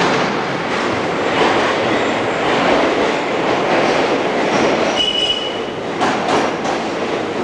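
Articulated train of Budapest's shallow underground line running, a steady noise of wheels on rail. A brief wheel squeal comes about five seconds in, and a few clicks follow near the end.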